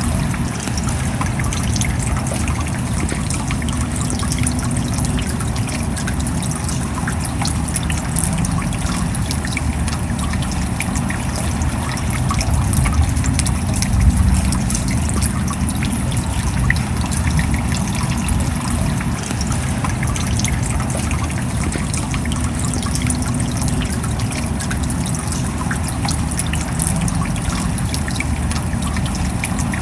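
Steady rain, a dense scatter of small drop ticks over an even wash of noise, with a brief swell about fourteen seconds in.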